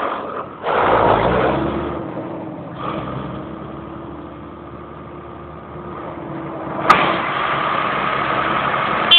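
Tractor diesel engines running, swelling louder about a second in and then settling to a steady run. A single sharp click about seven seconds in.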